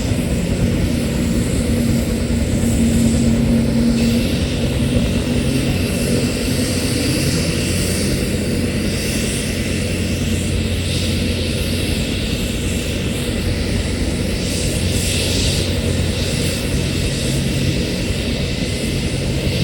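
Military helicopter running on the ground, a steady low engine and rotor hum; a steady high turbine whine joins about four seconds in.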